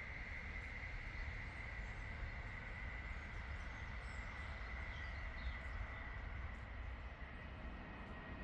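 Rural outdoor ambience: a steady low rumble under a steady high-pitched tone, with a few faint bird chirps about halfway through.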